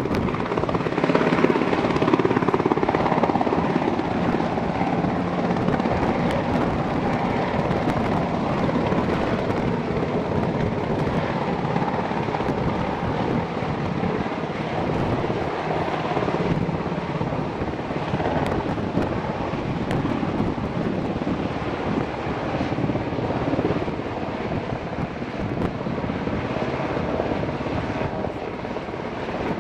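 Coast Guard rescue helicopter close by, its rotor chopping steadily with the whine of its turbine engines.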